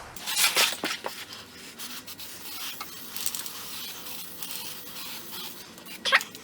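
Aerosol can of Fluid Film oil undercoating spraying into a car's wheel arch, hissing in short bursts with a fainter hiss between, and a louder burst just after six seconds.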